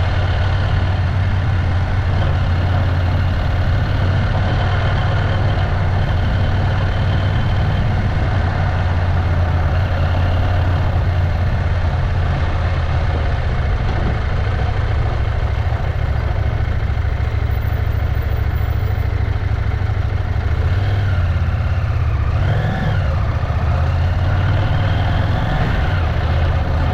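Motorcycle engine running steadily during a ride, a constant low drone at an even level.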